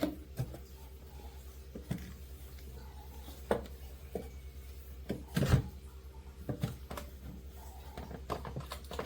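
Scattered light knocks, clicks and rubbing from hands wiping down and handling parts of a refrigerator, with the loudest knock, a low thud, about halfway through. A steady low hum runs underneath.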